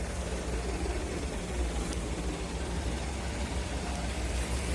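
Bus engine idling with a steady low hum.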